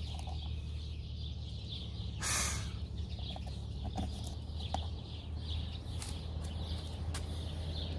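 Scattered light clicks and taps of hand work on a car door's interior trim, with a short noisy rush about two seconds in, over a steady low hum.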